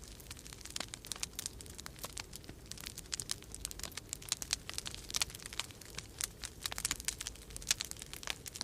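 Wood fire crackling in a fireplace, with irregular sharp snaps and pops, several a second, over a faint low rumble of storm wind.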